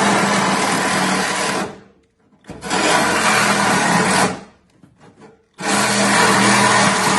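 A power saw cutting, run in three bursts with two short stops, near two seconds in and just after four seconds.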